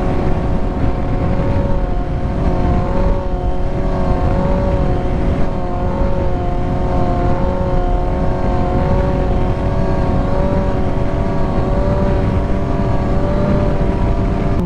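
Motorcycle engine running at a steady, even speed while riding, over a dense low rumble.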